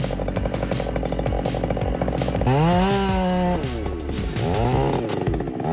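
Chainsaw engine running with a rapid rattling pulse. About halfway through it revs up to a high, steady pitch for about a second, then its pitch wavers as it cuts. Background music plays underneath.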